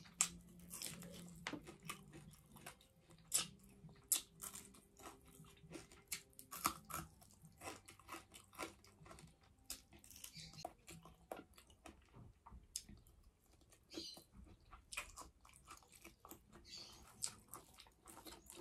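Close-up chewing and mouth smacking of someone eating rice, fried tilapia and boiled vegetables by hand: many quick, irregular, faint wet clicks.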